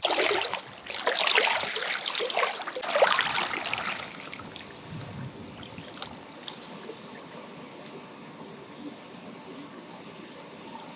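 Swimming-pool water splashing and sloshing, stirred for about four seconds, then settling to a quiet steady hiss.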